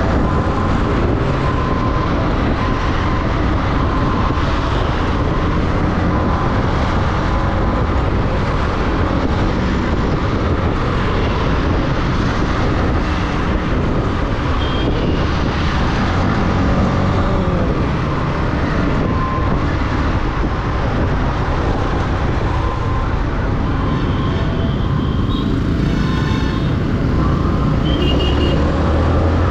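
Riding noise from a Yamaha MT-15 V2 motorcycle in city traffic: steady wind rush on the action camera's microphone over the bike's 155 cc single-cylinder engine and the surrounding traffic.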